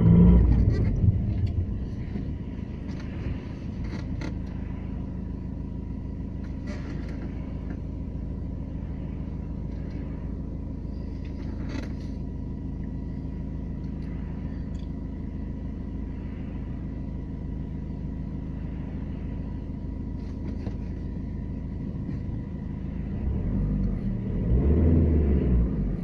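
Renault Laguna II 1.9 dCi diesel engine running, put under load to bring out an extraneous noise. It is louder in the first second and again for a few seconds near the end, and runs steadily in between with a faint steady whine above the rumble.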